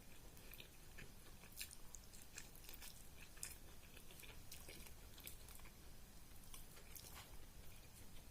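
Close-miked chewing of soft, wet food such as rice and curry, with many small irregular mouth clicks and smacks.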